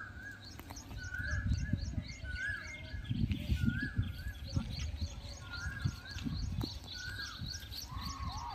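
Two birds calling. One repeats a short rising-then-falling call about once a second; the other gives a fast run of high, thin chirps at about three a second. A low rumbling noise, like wind on the microphone, runs underneath.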